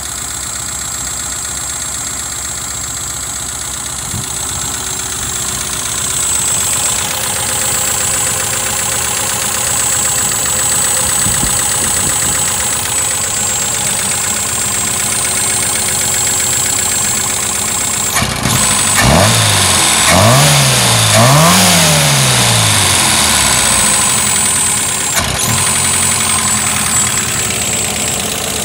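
Ford 2.0L Pinto four-cylinder engine running rough at idle with a steady high-pitched whine, revved up and back down twice about two-thirds of the way through. The owner reports it rough-running and down on power, cause not yet found.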